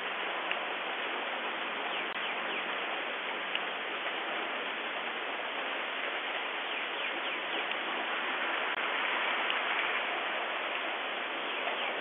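Rain falling steadily, heard through a Ring doorbell camera's microphone, with scattered sharp ticks of nearby drops. The rain swells a little about nine seconds in.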